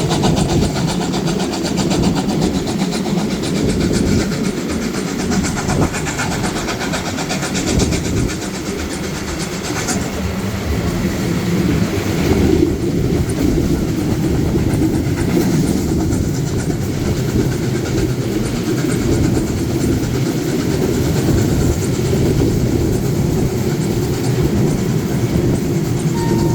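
Railway carriage running along the track: a steady rumble of wheels on rail with a light clatter over the rail joints.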